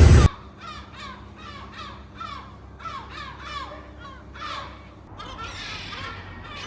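Gulls calling over and over in short, falling calls, about two to three a second, which crowd together and overlap from about five seconds in. A loud rushing noise cuts off abruptly just as the calls begin.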